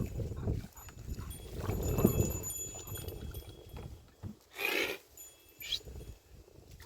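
Goats moving about with a low rumbling of movement, then a goat bleating once, briefly and loudly, about two-thirds of the way through, followed by a short higher call.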